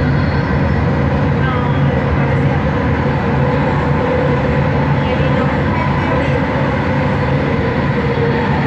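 Bombardier Innovia ART 200 metro train running at a steady speed, heard from inside the car: a constant low rumble under steady whining tones from its linear induction motors, with passenger voices faintly mixed in.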